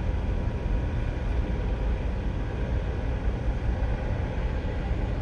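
Helicopter running close by: a steady low rumble of engine and rotors.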